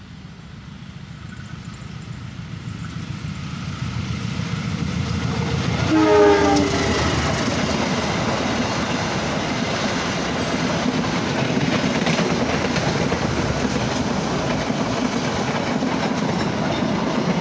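Dharmawangsa long-distance passenger train approaching and passing close by. Its rumble grows over the first few seconds, the horn sounds briefly about six seconds in, and then the coaches go past with a steady rumble and wheel clatter on the rails.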